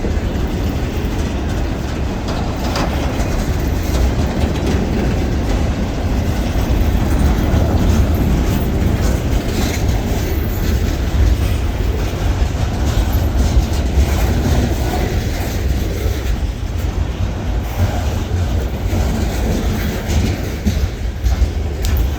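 Freight train rolling past, with a steady low rumble and the clickety-clack of wheels over the rail joints.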